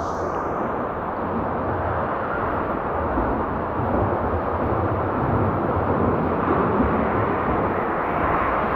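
Steady rushing noise of a swimming pool during lap practice, with a brief high hiss right at the start.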